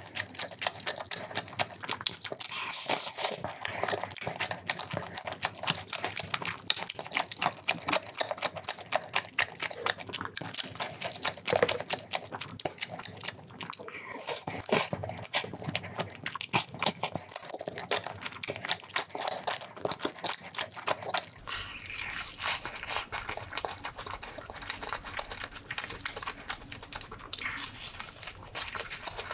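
Close-miked eating: wet chewing and lip smacking on chewy rice cakes and sausage coated in cheese sauce, a dense run of sticky clicks. About two thirds through, the sound cuts to another eating scene with a steadier background hiss.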